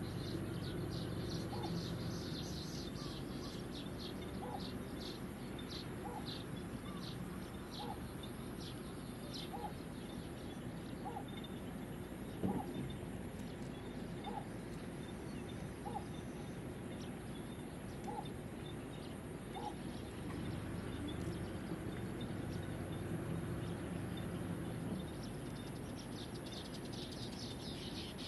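Birds calling outdoors: a short low call note repeated about every second and a half for some twenty seconds, over quick high chirps of small birds, with a steady high-pitched hum behind. One brief knock about twelve seconds in is the loudest moment.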